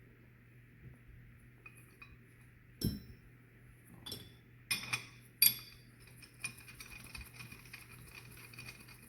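Metal tools and parts clinking and knocking together in a handful of sharp clinks, the loudest about five and a half seconds in, over a steady low hum.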